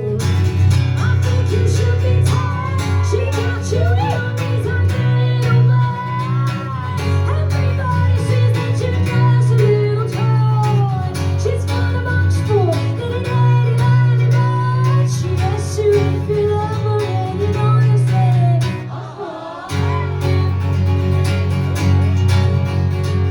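Live pop-rock music: a strummed guitar over a steady low bass, with a sliding melody line on top, and a brief break in the playing near the end.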